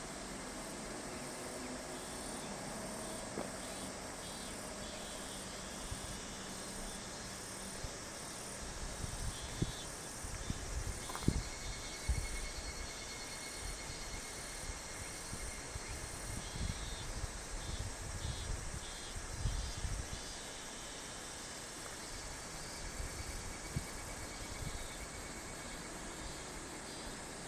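A chorus of summer insects: steady high-pitched trilling and buzzing. An irregular low rumble comes and goes through the middle stretch.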